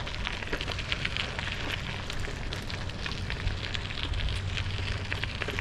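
Bicycle tyres rolling over loose gravel: a dense crackle of small clicks over a steady low rumble.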